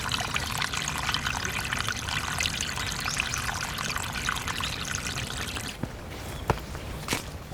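Running water trickling and splashing, as from a small stream or runoff. It drops away abruptly about six seconds in, and a couple of footsteps follow.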